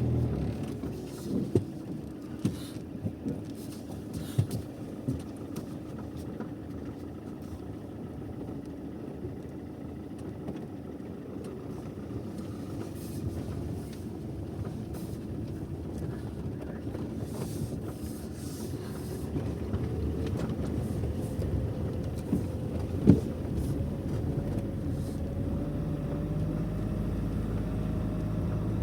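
A motor vehicle's engine running steadily, with a few sharp clicks and knocks over it and one louder knock about two-thirds of the way through.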